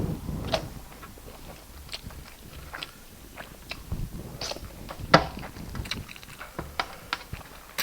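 Close-up eating sounds: chewing a mouthful of rice and snail stew, with irregular wet mouth smacks and clicks. The loudest smack comes about five seconds in.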